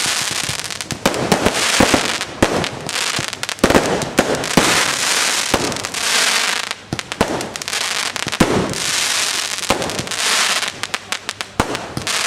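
Fireworks display: a rapid, irregular volley of sharp bangs, with two long spells of dense crackling hiss between them.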